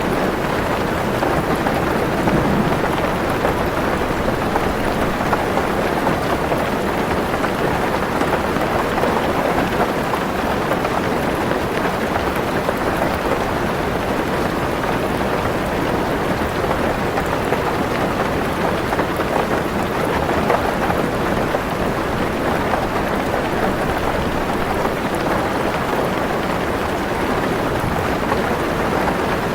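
Heavy rain falling steadily on a car's roof and windows, heard from inside the car as a dense, even patter.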